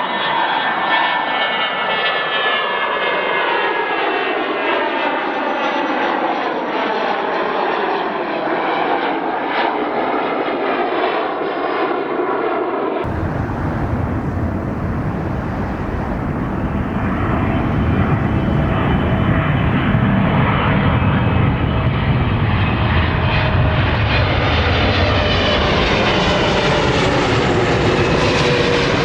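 Jet airliner engines passing, their whine of stacked tones falling steadily in pitch. About halfway through, the sound cuts abruptly to another jet's deep rumble that grows louder, with a rising whine and hiss near the end.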